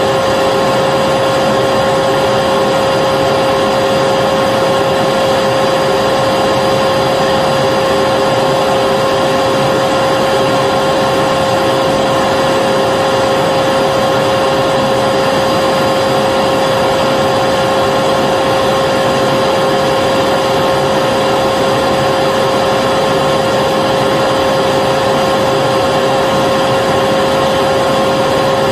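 Vacuum cleaner running continuously, a steady motor whine over even rushing air noise, with no change in pitch or level.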